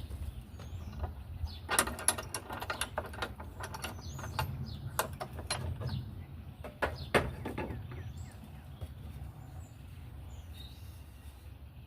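Irregular knocks and clicks, a dozen or so sharp hits over several seconds, dying away near the end, over a low steady hum.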